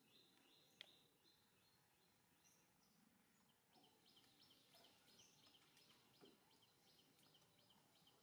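Near silence: a faint outdoor background with rapid series of short, high chirps from small birds, and a single faint tick about a second in.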